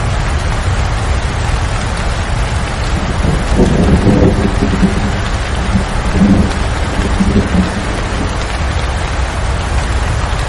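Steady rain, with a low roll of thunder rumbling through the middle for about four seconds, loudest twice.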